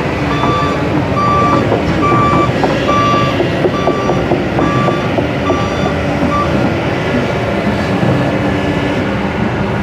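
A heavy vehicle's reversing alarm beeping steadily, about one beep every two-thirds of a second, over the running of engines; the beeping stops about six seconds in.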